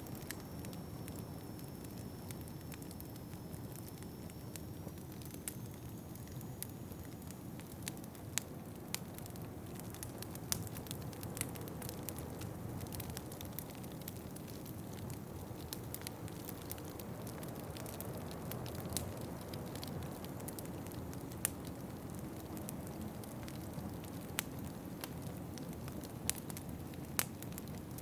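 Wood fire crackling in a fireplace, with sharp pops every second or two over a steady low rush of wind.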